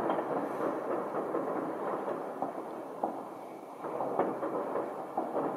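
Fireworks going off all around: many distant bangs and crackles running together into a continuous rumble, with a few sharper, nearer cracks in the second half.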